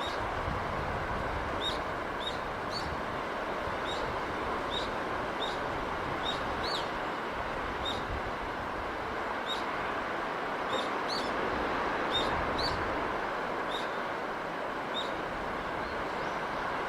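Steady rushing of sea and breeze, with a small bird chirping repeatedly: short, high chirps at irregular intervals, one or two a second.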